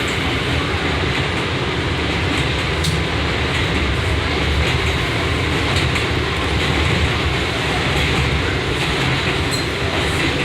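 An R179 subway car running between stations, heard from inside: a steady noise of wheels on rails and running gear, with a few faint clicks.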